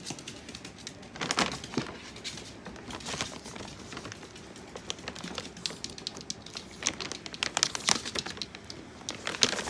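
Dog food being prepared: packaging crinkling and dry kibble clicking in a string of irregular small clicks and rustles.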